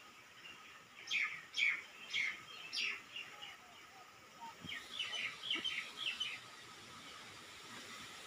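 Small birds chirping: four loud, short high chirps about half a second apart starting about a second in, then a quicker run of shorter chirps about five seconds in.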